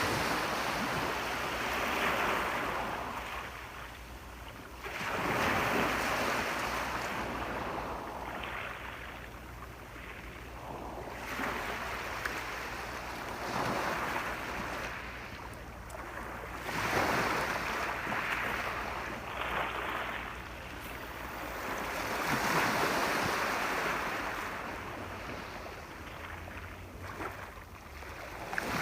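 Sea waves breaking and washing onto the shore, surging and ebbing about every five to six seconds, six times.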